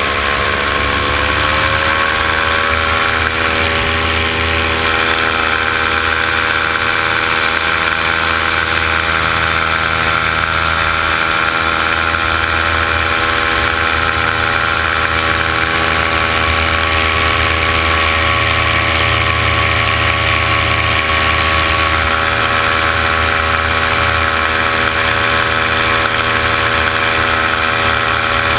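Quadcopter drone's motors and propellers whining steadily in flight, the pitch rising slightly in the first couple of seconds and then holding even.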